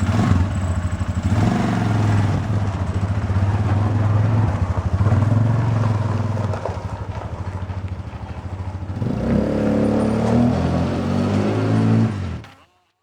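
A motor vehicle's engine, just started, running and revving as it sets off, its pitch rising and falling with the throttle and climbing more strongly about nine seconds in; the sound cuts off suddenly near the end.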